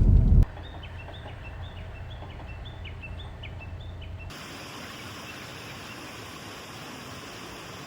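A loud low rumble cuts off suddenly. Then a bird calls a run of short, high, downward-sliding notes, about three a second. About four seconds in this gives way abruptly to a steady rushing hiss.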